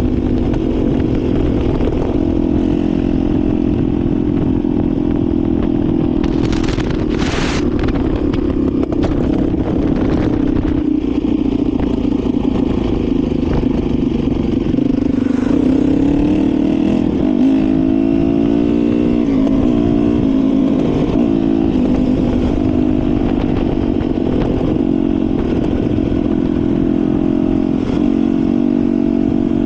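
Dirt bike engine running while riding, the revs rising and falling over and over with the throttle. Two short bursts of noise about seven seconds in.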